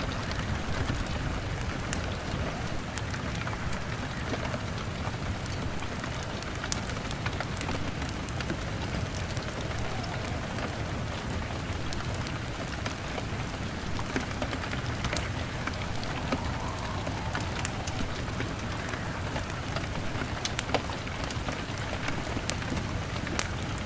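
Steady rain on a window, with scattered sharp crackles and pops from a wood fire.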